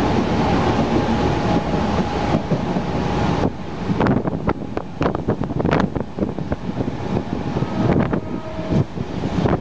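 Mumbai suburban local train running at speed, heard from inside the carriage, with a steady tone over its rumble. From about three and a half seconds in, the noise through the open doorway takes over, with irregular gusts of wind on the microphone.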